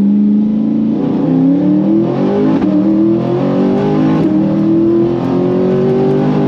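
Twin-turbo C8 Corvette V8 at a steady note, then under full-throttle acceleration in second gear from about a second in, its pitch climbing steadily as the revs rise through a 60 to 130 mph pull.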